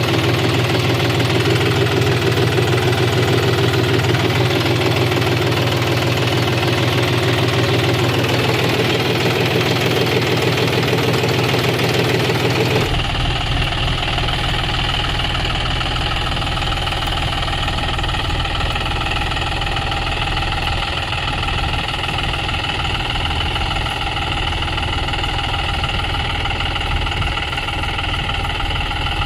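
John Deere tractor's diesel engine running steadily at low revs while pulling a cultivator in low-range first gear. The sound changes abruptly about thirteen seconds in.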